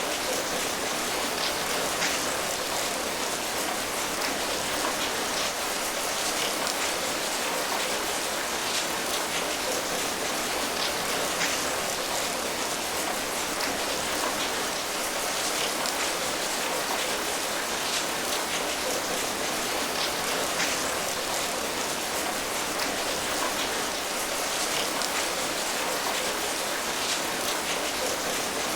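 Steady rainfall: an even hiss of rain with many small drops pattering on a surface.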